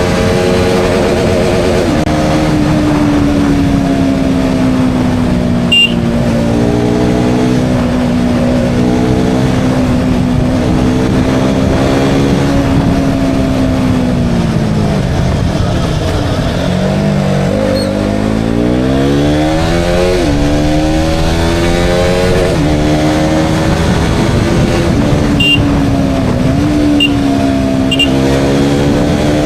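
KTM Duke 200's single-cylinder engine under way: it holds a steady note, drops off as the bike slows about halfway through, then revs up steeply, breaks briefly for a gear change, and settles back to a steady cruise. A brief knock sounds about six seconds in.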